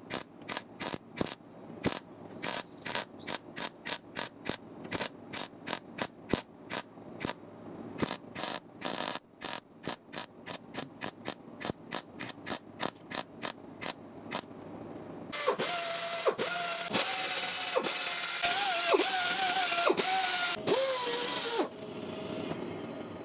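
A fast run of short, evenly spaced metallic bursts, nearly three a second. Then a handheld electric grinder runs on the welded sheet metal for about six seconds, its motor pitch dipping again and again as it is pressed into the work. It stops about a second and a half before the end.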